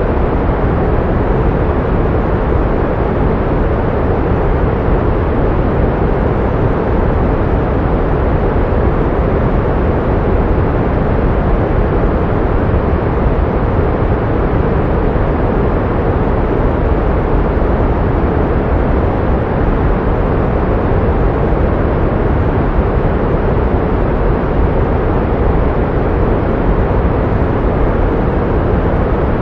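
Steady pink noise: an even, unbroken hiss weighted toward the low end, with no tones or changes.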